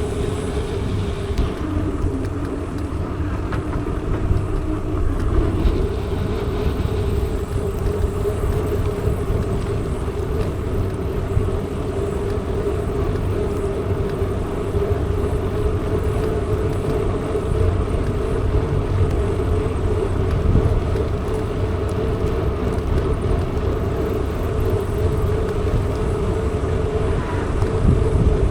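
Mountain bike in motion: wind rumbling on the microphone over steady rolling noise with a constant hum.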